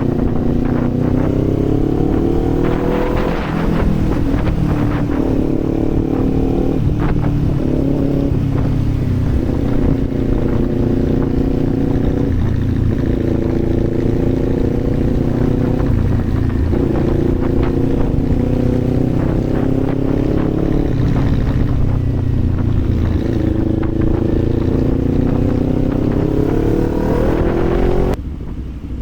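Kawasaki Z400's parallel-twin engine riding on the road, its revs climbing and dropping back again and again as the gears change, with a long climb in revs near the end that cuts off suddenly.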